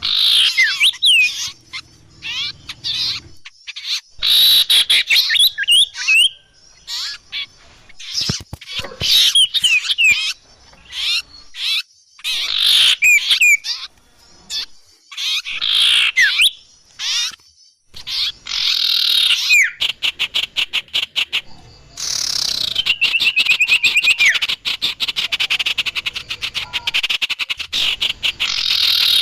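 Bird-lure (pikat) recording of agitated small songbird calls: bursts of sharp chirps and quick falling whistled notes, then fast rattling trills and chatter through the second half.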